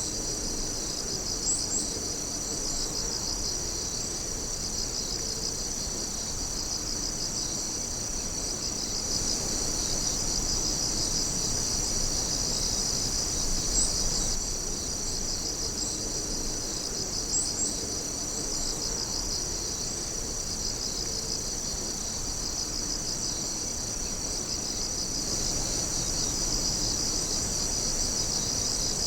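A chorus of night insects, crickets among them, chirping steadily in a dense, continuous high-pitched trill, with a few brief higher chirps standing out.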